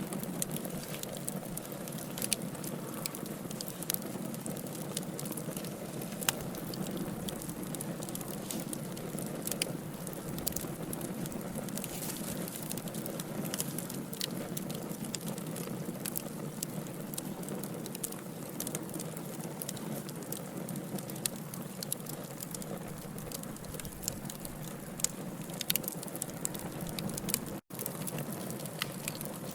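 Wood logs burning in a fire, crackling steadily with frequent sharp pops over a low rushing bed of flame noise. A split-second dropout comes near the end.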